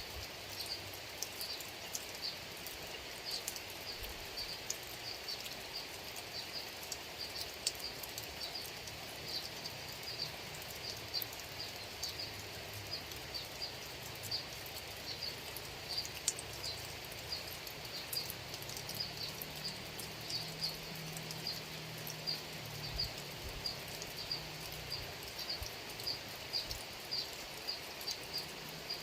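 Steady rain falling on a rice field, with many small drop ticks over the even hiss. A high-pitched chirp from a creature in the field repeats steadily underneath.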